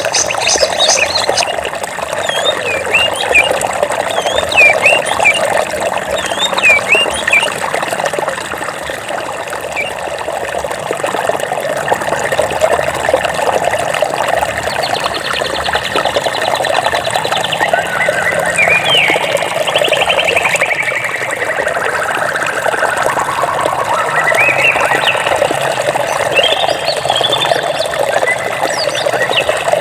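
Flowing water running steadily, with birds chirping over it: short chirps in the first several seconds, then longer trilled phrases from about halfway and again near the end.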